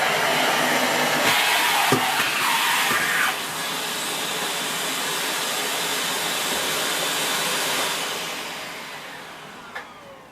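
Miele S6 cylinder vacuum cleaner's 2000 W motor running with a steady rushing noise, louder for a couple of seconds near the start. It is then switched off about eight seconds in and winds down with a falling whine.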